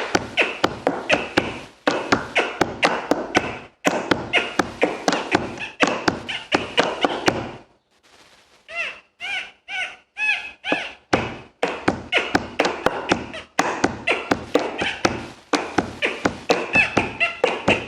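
Beatboxing: a fast, dense run of mouth-made percussive beats mixed with voiced sounds. About eight seconds in it breaks off briefly for a string of short, high, arching vocal calls, then the beat picks up again.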